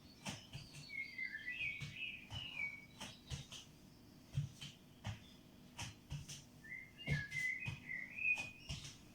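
A small bird chirping and warbling in two short runs, the second about seven seconds in, over soft irregular knocks of steps on the floor.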